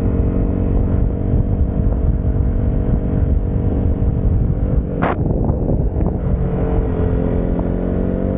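Motorcycle engine running at a steady note while riding, with a sharp click about five seconds in as the note breaks off; the engine note then returns and climbs gradually.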